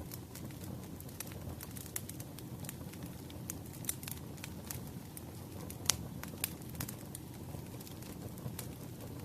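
Firewood burning, a steady low rumble of flames with irregular sharp crackles and pops, the loudest pop about six seconds in.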